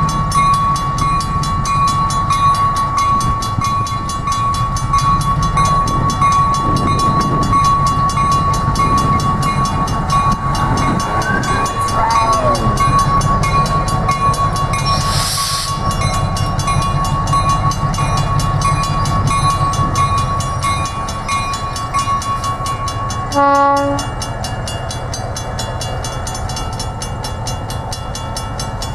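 SW1200 diesel switcher locomotive running with a steady low engine rumble and a steady high whine that stops a little after twenty seconds in. There is a brief hiss about halfway through, then one short blast of its Nathan P3 air horn.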